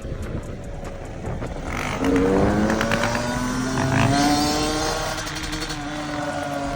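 Yamaha YZ450F single-cylinder four-stroke dirt bike engine running. About two seconds in it accelerates, its pitch rising for a couple of seconds, then it holds a steady speed.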